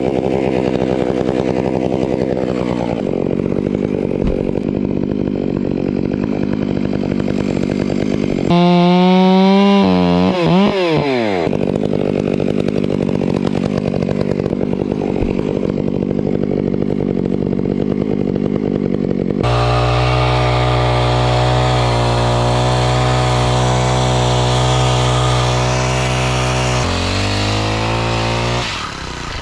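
Chainsaw running, revved up hard about eight seconds in and easing back down. About nineteen seconds in, the sound switches abruptly to a steady engine note at a fixed pitch, which drops lower near the end.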